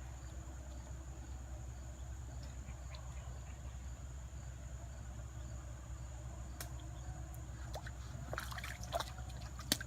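Creek water trickling steadily, with a few sharp clicks and splashy knocks near the end.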